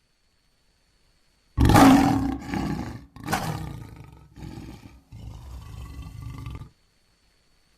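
Lion roaring: after about a second and a half of silence a loud roar starts abruptly, a second roar follows about a second and a half later, then two weaker, fading calls before the sound cuts off suddenly.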